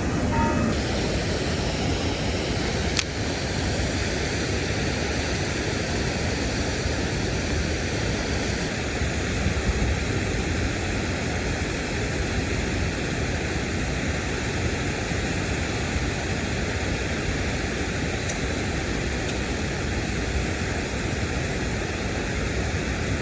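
Steady rushing noise of water pouring through a river dam, with one sharp click about three seconds in.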